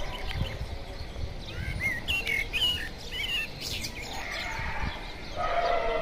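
Small birds chirping outdoors: a run of short, warbling chirps that rise and fall, about two seconds in. Near the end a steadier, lower pitched sound comes in.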